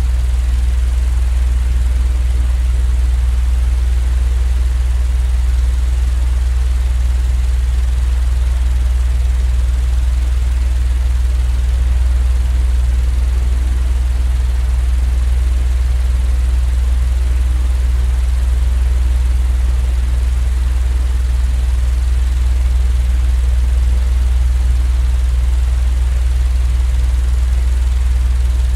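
Steady machine drone for sleep: a strong low hum with an even hiss above it, unchanging throughout.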